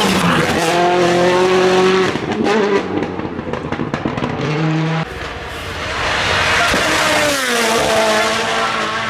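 Rally cars at speed: engines revving up and down through gear changes, with tyre squeal. About five seconds in the sound changes abruptly to another car, whose engine note falls steeply as it passes.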